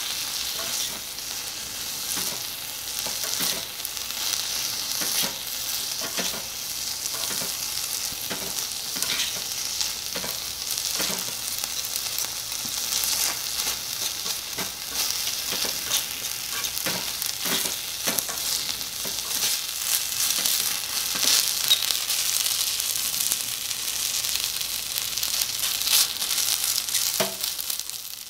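Beef and noodle stir-fry sizzling in a miniature copper pan, with a tiny metal spoon stirring and clicking against the pan at irregular intervals.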